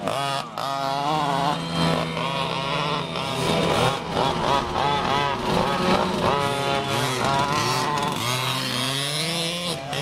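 Small two-stroke engines of large-scale RC cars running on a track, revving up and down as the cars accelerate and brake; more than one engine is heard at once, their pitches overlapping.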